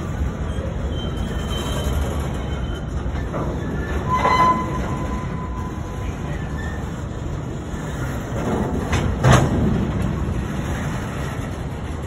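Freight train boxcars rolling past, a steady rumble of steel wheels on the rails. A short wheel squeal comes about four seconds in, and a loud knock about nine seconds in.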